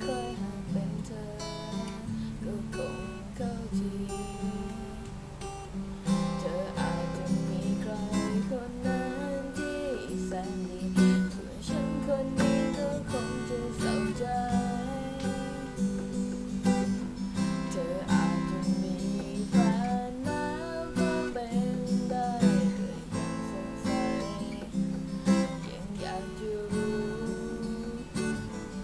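Acoustic guitar strummed in steady chords, with a melody line that bends in pitch above it.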